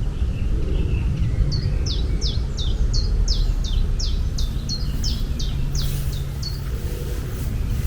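A songbird singing a run of about a dozen quick notes, each sliding downward, about two a second, over a steady low rumble.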